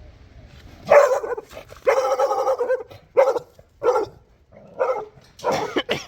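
A dog barking loudly and repeatedly, about six barks in a row starting about a second in.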